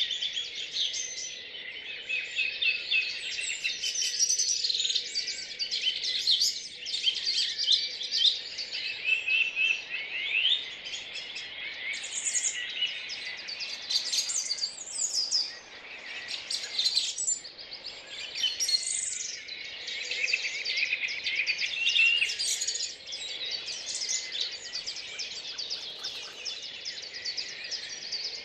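Dawn chorus of several songbirds singing at once, a dense overlapping mix of chirps, trills and whistled phrases.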